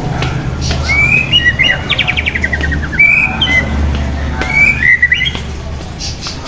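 A caged songbird singing in short whistled phrases, with a rapid trill of repeated notes about two seconds in, over a low steady rumble.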